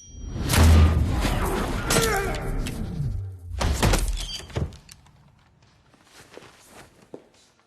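Action-film sound effects: a heavy boom about half a second in, followed by crashing and shattering, then a second loud hit around four seconds before it dies down to scattered thuds.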